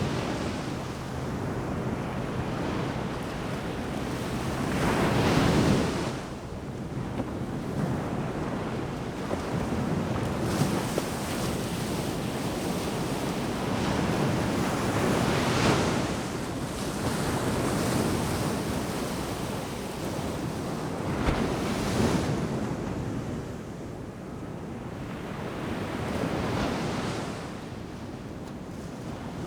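Ocean surf breaking on the shore: a steady wash of water with a wave surging in every few seconds, the loudest about five, fifteen and twenty-two seconds in.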